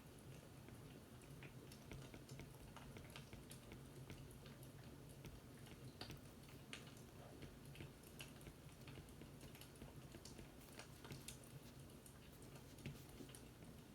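Faint fireplace crackling: irregular sharp pops and snaps over a steady low rumble.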